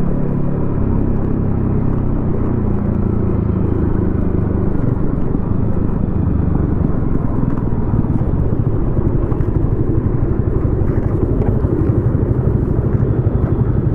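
Yamaha XSR155's single-cylinder engine running through a homemade exhaust, a steady low engine note over road and traffic noise.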